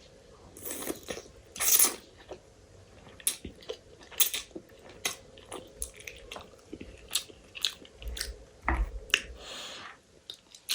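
Close-miked mouth sounds of a person eating: chewing with many small wet clicks, and two louder bites in the first two seconds.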